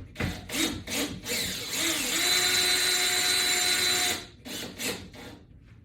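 Power drill-driver tightening the screw of a toggle bolt: a few short pulses, then a steady motor whine for about three seconds that stops abruptly, followed by a couple of brief pulses.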